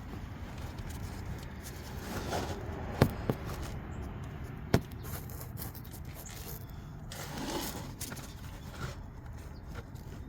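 Hand work with tools and parts: scraping and rustling, with three sharp clicks, two about three seconds in and one near five seconds.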